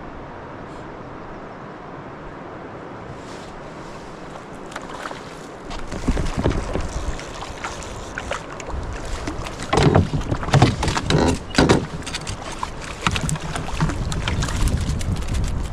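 Canoe on a river: a steady rushing noise, then from about six seconds in a louder run of knocks and clatters.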